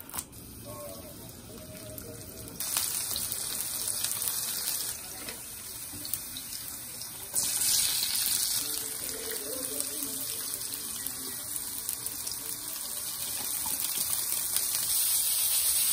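Chopped scallions and chili frying in coconut oil in a wok, a steady hiss that starts a few seconds in. It jumps louder when a bowl of sliced onion is tipped into the pan about seven seconds in, and builds again as tofu noodles go in near the end.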